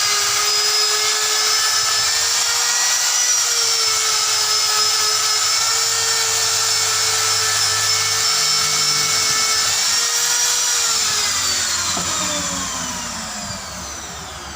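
High-speed rotary power tool running with a steady high whine, then switched off about eleven seconds in and spinning down with a falling pitch.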